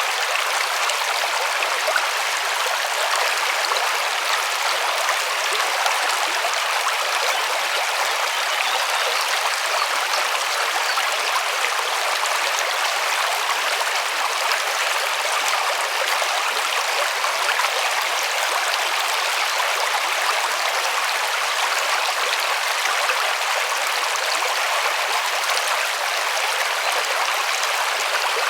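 River water rushing and splashing over rocks in a steady, unbroken hiss.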